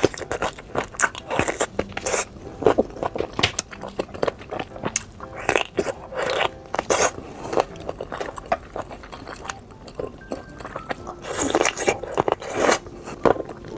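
A person biting and chewing food close to the microphone: irregular wet smacks and crunchy clicks of eating, with no break.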